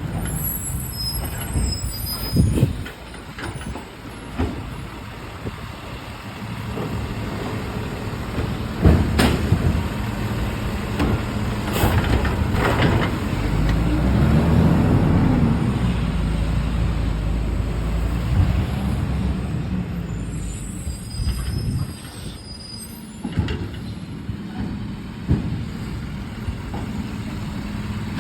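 Garbage truck working at the curb: its diesel engine runs steadily and revs up and back down about halfway through. Several sharp bangs and brief high squeals, like air brakes, come over it.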